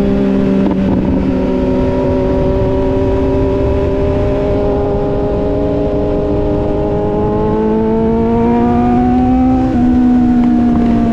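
Motorcycle engine running under way, its note steady at first, then climbing gradually and dipping briefly near the end, with wind rumbling on the microphone.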